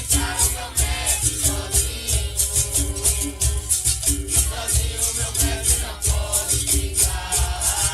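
Capoeira music: berimbau with a caxixi rattle shaken in a steady rhythm, playing between the sung verses of the song. A voice starts singing again near the end.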